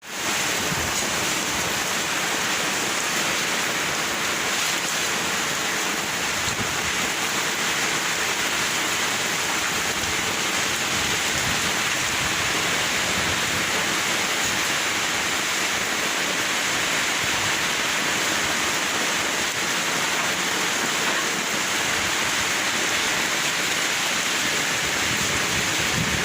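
Heavy rain pouring down in a rainstorm, a dense, steady hiss that keeps an even level throughout.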